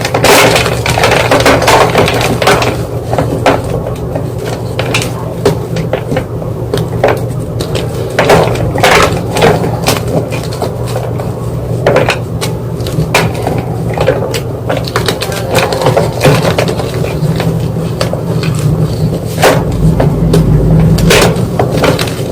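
White gym chalk being crunched and crushed, a run of irregular dry crunches and snaps, sometimes several a second, over a steady low hum.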